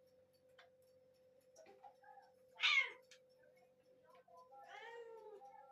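Kitten meowing twice: a short, loud, high meow about two and a half seconds in, then a longer, quieter meow near the end.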